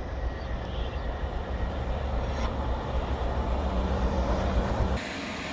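Passenger train's deep, steady rumble that cuts off abruptly about five seconds in.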